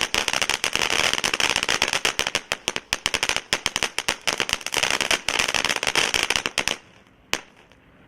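Ground firework fountain burning with dense, rapid crackling over a hiss, thinning out and stopping near the end, with one last crack just after.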